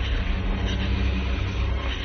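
A steady low rumble with a faint held hum.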